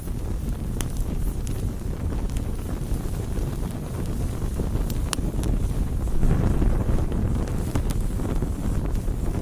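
Campfire burning: a steady low rush of flames with scattered sharp crackles and pops from the wood, swelling louder about six seconds in.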